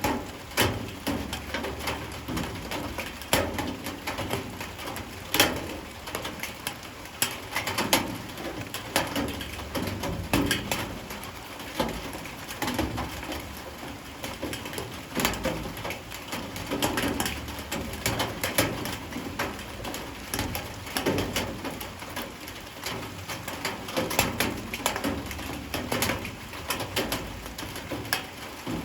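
Light rain falling, with drops and drips tapping irregularly and sharply on hard surfaces over a steady patter.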